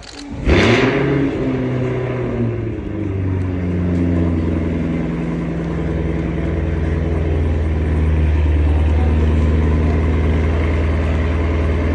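An engine starting with a loud burst about half a second in, then running steadily at an even, low pitch.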